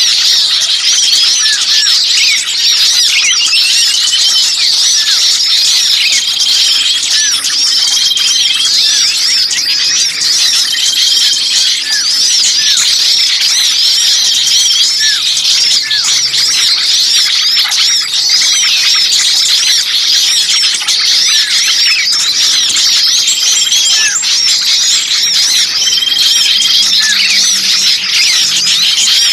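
Noisy chorus of many small songbirds chirping and twittering at once, with short level whistles recurring every second or two. It is a bird-lure (pikat) recording meant to draw in small birds.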